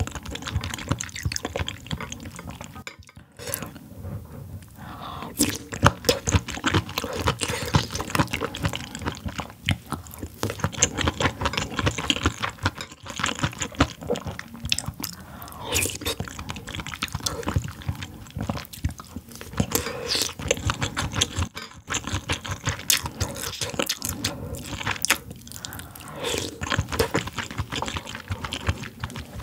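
A person chewing and biting food right at the microphone, in the manner of a mukbang. There are many small wet clicks from the mouth, with brief pauses a few seconds in and again about two-thirds of the way through.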